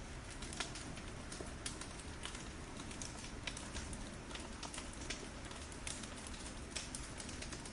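Wood fire burning in a fireplace: irregular sharp crackles and pops, several a second, over a steady hiss.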